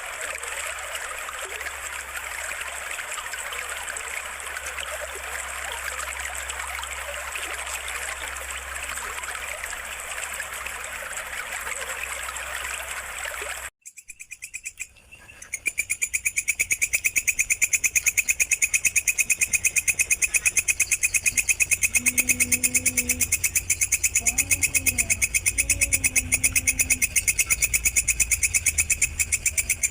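Water trickling steadily, cut off abruptly about halfway through. After a short gap, an insect starts a fast, even, high-pitched chirping made of rapid pulses, which carries on to the end.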